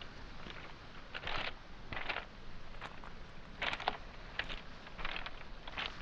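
Footsteps crunching and clattering on beach pebbles and small stones, roughly one step a second, over a steady wash of the sea.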